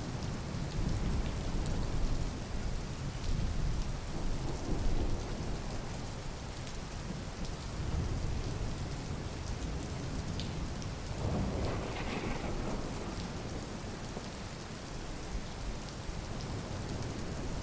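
Steady rain falling, with scattered drop ticks over a low rumble that is heaviest in the first few seconds, and a brief swell a little past the middle.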